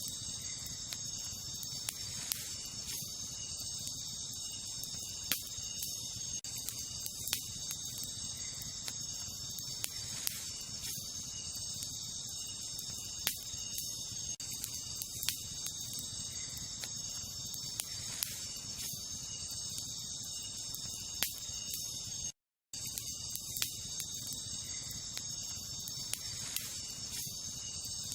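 Wood campfire crackling, with sharp scattered pops every second or two, over a steady, high-pitched chorus of night insects such as crickets. All sound cuts out for a split second about 22 seconds in.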